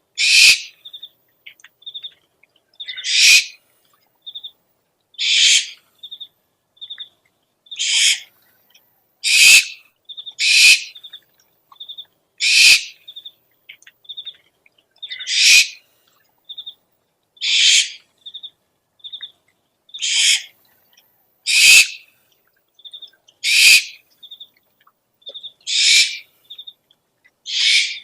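Owl calls: a hissing screech about half a second long, repeated every two seconds or so, with short, high peeping notes in between.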